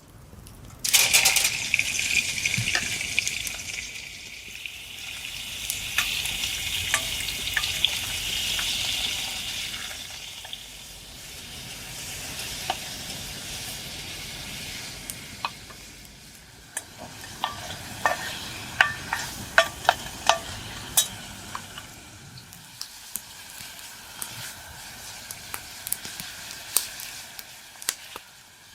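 Food sizzling in a hot iron pot. The sizzle starts suddenly about a second in, is loudest for the first ten seconds, then settles to a quieter fry. Sharp clicks and knocks run through the second half.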